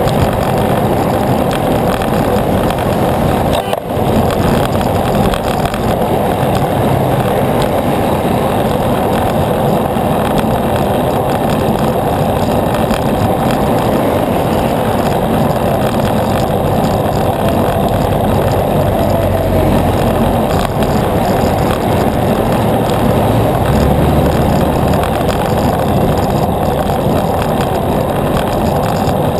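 Steady rushing road noise of a bicycle ride: wind and tyre rolling noise, with a brief dip about four seconds in.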